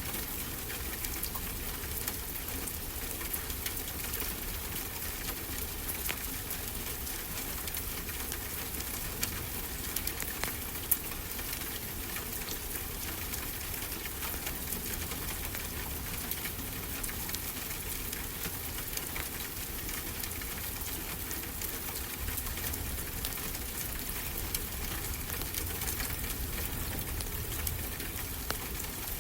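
A wood fire crackling, with scattered pops and one sharper pop about eleven seconds in, over a steady wash of ocean surf.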